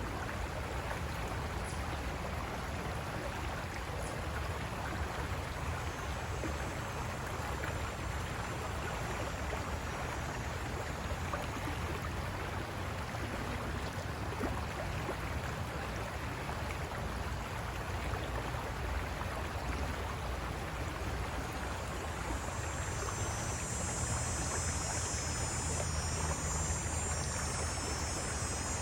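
River water running over rocks, a steady rush of noise. High-pitched insect trilling comes in faintly about six seconds in and again, louder, over the last several seconds.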